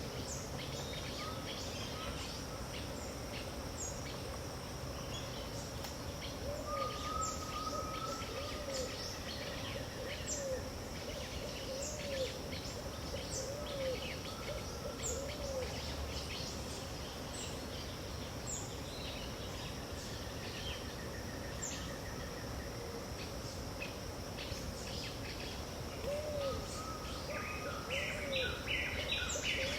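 Pantanal dawn chorus: many birds calling at once over a steady high insect hum. A low call repeats about once a second for stretches. A louder, rapid series of calls comes in near the end.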